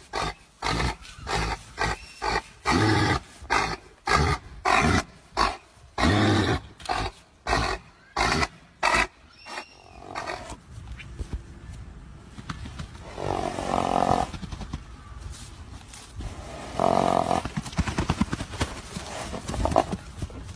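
An animal's loud calls: a rapid series of short, harsh grunting calls for about ten seconds, then quieter, scattered calls with two louder ones near the end.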